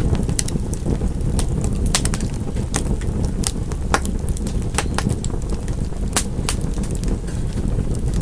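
Wood fire crackling and popping, irregular sharp snaps over a steady low rumble of the flames.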